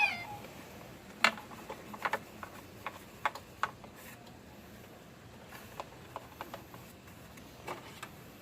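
Scattered light clicks and taps, about ten at irregular intervals, from hands handling small plastic parts and fuel line on a leaf blower's fuel tank.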